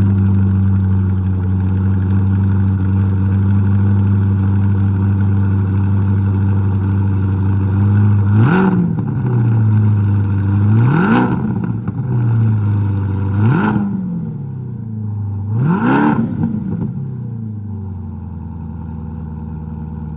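Chevrolet Corvette E-Ray's 6.2-litre V8 through an AWE Tuning track exhaust, idling high just after start-up, then blipped four times in quick succession. The idle drops to a lower, steady note after the third rev.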